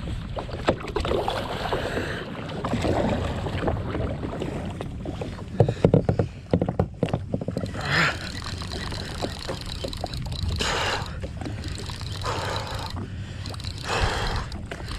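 Water sloshing and splashing around a fishing kayak, with wind on an action-camera microphone. There is a cluster of sharp knocks around six seconds in, and short splashy swells recur every couple of seconds later on.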